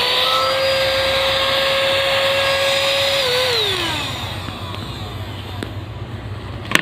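Portable cordless mini vacuum cleaner's motor running at a steady high whine, then switched off about three seconds in and spinning down. A sharp click near the end.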